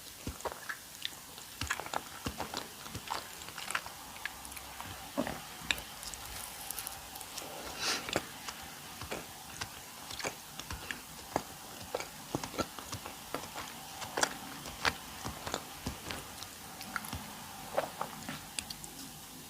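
Close-miked chewing and mouth sounds of eating a custard-filled doughnut: many small irregular clicks and smacks of biting and chewing.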